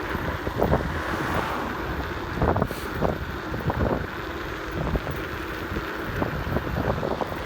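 Wind buffeting the microphone and road rumble while riding an electric scooter at about 31 mph, with a few short knocks.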